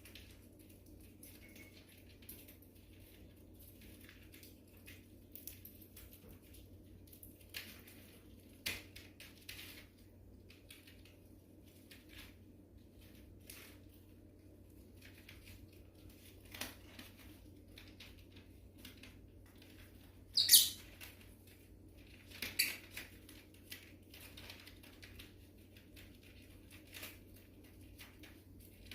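An eye-ring lovebird working at newspaper: scattered light paper rustles, nibbling clicks and short rips, with the two loudest rustling bursts about two-thirds of the way through, over a low steady hum.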